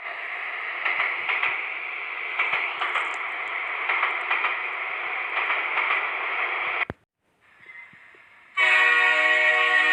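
Cartoon train sound effect: the train running, a steady rushing noise with faint clatter, which cuts off abruptly about seven seconds in. After a brief lull, a long, steady train horn blast begins near the end.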